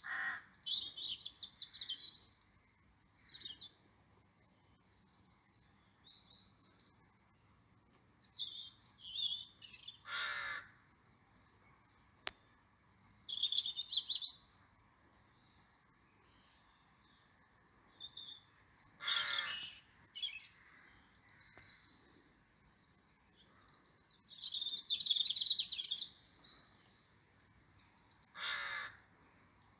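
Birds chirping in short bursts, with a louder call about every nine seconds, four times in all.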